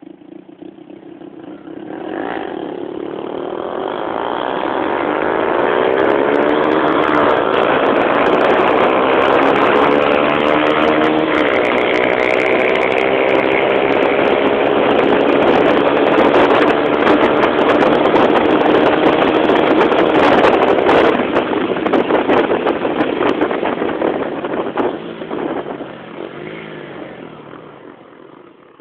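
A motorcycle engine running. It grows louder over the first few seconds, stays loud for about fifteen seconds with its pitch slowly shifting, then fades away near the end.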